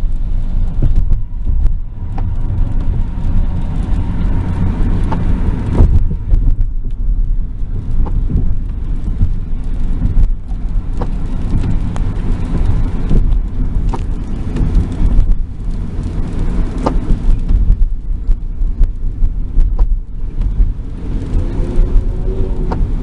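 Car road noise heard from inside the moving car: a steady low rumble, with scattered faint ticks.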